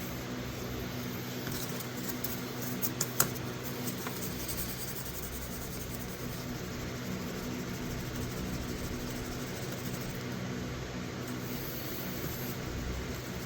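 Steady low machine hum, with a few light clicks about three seconds in.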